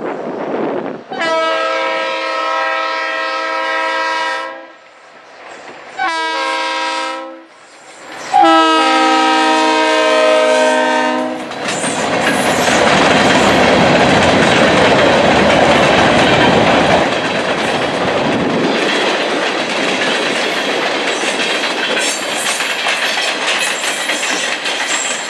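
Diesel locomotive horn sounding at a grade crossing: a long blast, a short one and another long one, each a chord of several tones. The KB&S GP38M-2 locomotives then pass close by, loudest for a few seconds, with the engine running and the wheels clacking over the rail joints.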